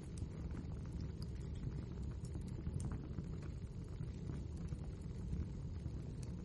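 Wood fire burning, a steady low rumble with frequent small, sharp crackles and pops.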